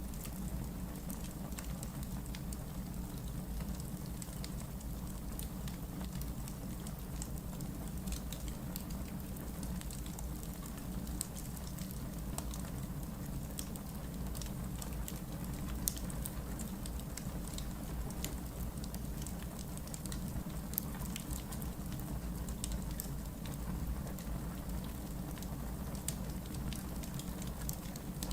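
Wood logs burning in a fireplace, crackling with scattered small snaps over a steady low rumble of the flames, with a few louder pops.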